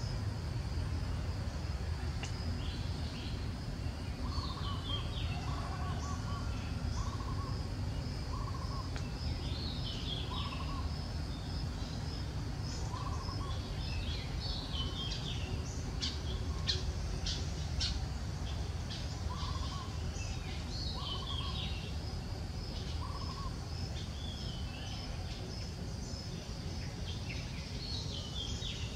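Wild birds chirping and calling, with one short note repeated about once a second in two runs, over a steady high pulsing note and a low rumble.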